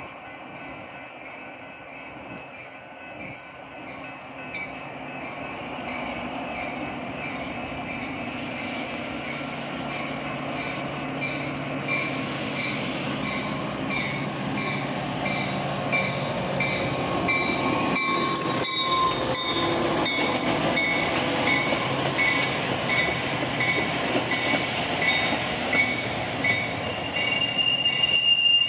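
Train approaching and drawing close, its rumble growing steadily louder, with a steady high tone coming in near the end.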